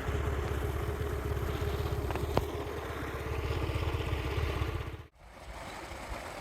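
Small scooter engine running steadily while riding, a fast low pulsing under the noise of the ride, with a single sharp click about two and a half seconds in. The sound cuts off abruptly about five seconds in to quieter outdoor sound.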